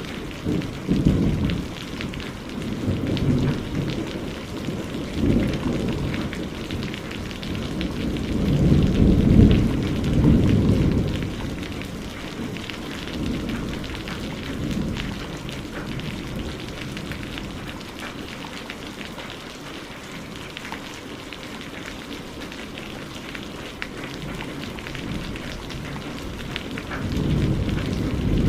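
Steady rain falling, with low rolling rumbles of thunder. The rumbles swell loudest about a third of the way in, fade away through the middle, and build again near the end.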